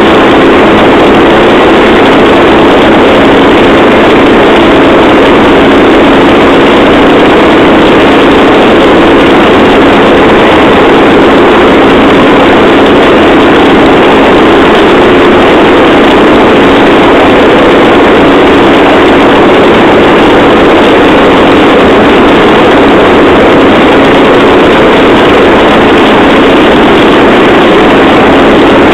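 Motorised rail trolley running steadily along the track, a loud unchanging engine note with rolling noise.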